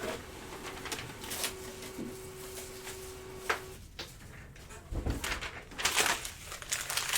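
Trading-card box and its packs being opened and handled: scattered clicks and cardboard-and-wrapper rustling, with a faint steady hum over the first few seconds and a heavier thump and busier rustling from about five seconds in.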